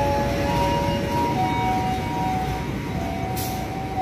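Passenger train coaches rolling slowly past a station platform, with a steady low rumble. A few steady tones shift in pitch over the rumble, and a short hiss comes about three and a half seconds in.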